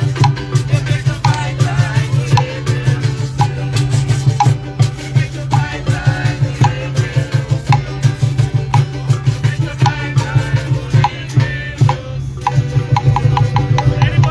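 Live percussion music: drums beaten in a fast, steady rhythm with rattles shaking, and a quicker run of sharp clicking strokes near the end.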